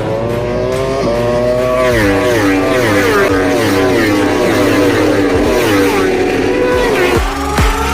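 Racing motorcycle engine at high revs, its pitch rising and dropping in a series of quick steps as it goes through gear changes, falling overall over several seconds. About seven seconds in the sound breaks off and a steadily rising tone begins.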